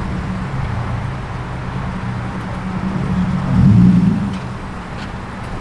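Car engine running with a steady low drone, swelling louder about three and a half seconds in as a car moves close by, then settling back.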